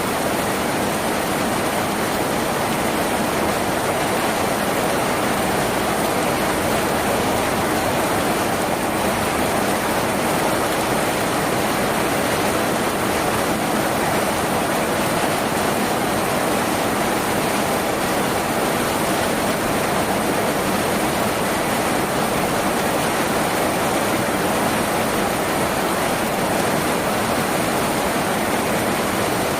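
Rain falling steadily on a tin roof, an even, unbroken rushing hiss.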